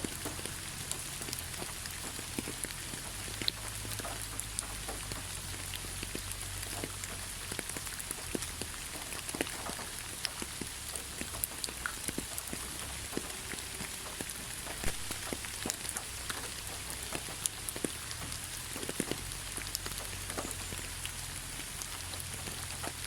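Heavy rain falling steadily, a constant hiss with many individual drops ticking and spattering on a hard surface.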